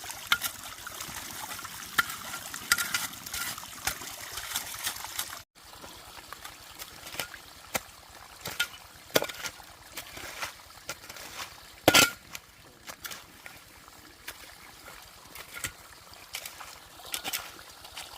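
Water trickling, with scattered sharp clicks and knocks over it. The sound cuts out briefly about five seconds in and then resumes, and a single loud knock comes about twelve seconds in.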